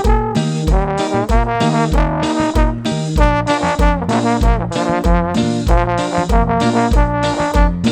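Live band music led by trombone with other brass, playing a melody over a steady kick-drum beat and bass.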